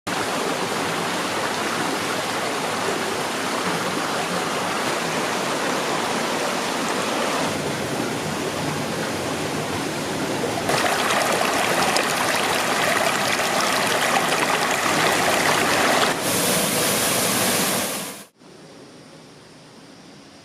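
Steady rushing of falling water from a waterfall, loud and close, shifting suddenly in tone and level a few times, then dropping sharply to a much quieter hiss near the end.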